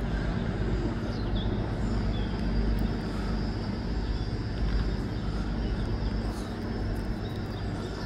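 Train passing at low speed: a steady low engine drone over the rumble of wheels on the track.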